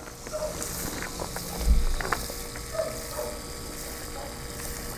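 Close-miked eating sounds: crackly chewing and crunching with scattered small clicks, and a low thump about a second and a half in.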